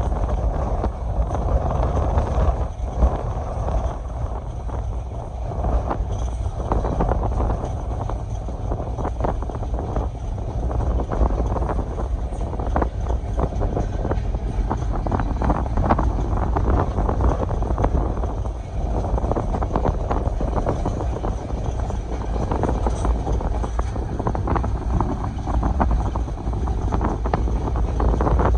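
Passenger train running at speed: a steady low rumble with rapid clattering from the wheels and carriages, and wind buffeting the microphone.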